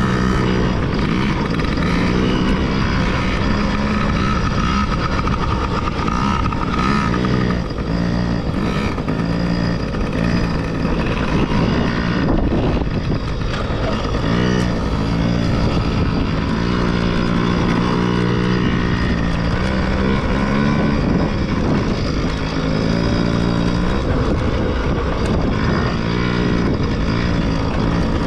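Small dirt bike engine being ridden, its pitch climbing and dropping back again and again as the throttle opens and closes.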